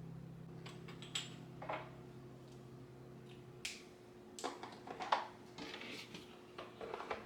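A scattering of light clicks, taps and small knocks, like household objects being picked up and set down, with a few clusters of quick taps in the second half. A low sustained music note fades out in the first half.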